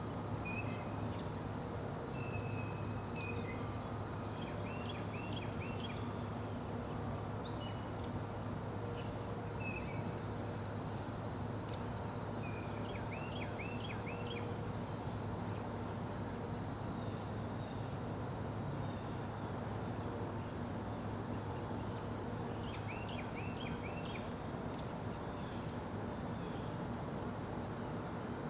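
Outdoor ambience: a steady low hum and noise bed with small birds calling. There are repeated clusters of three or four quick high chirps several times over, scattered single short notes, and a faint steady high-pitched drone.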